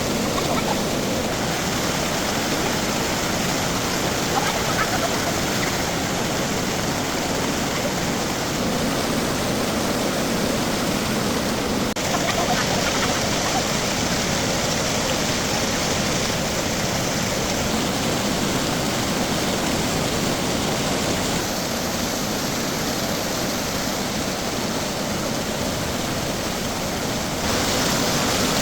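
A steady, even rushing noise that shifts slightly in tone and level at a few points.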